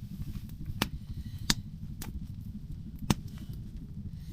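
Wood fire crackling in a small titanium tent stove: irregular sharp pops and snaps over a low steady rumble of the stove burning hot and drawing hard.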